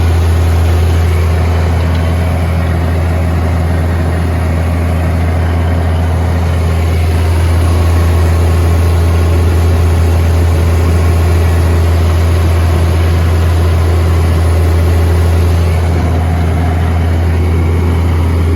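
Tractor diesel engine running steadily at constant revs, loud and close, with a deep, even hum.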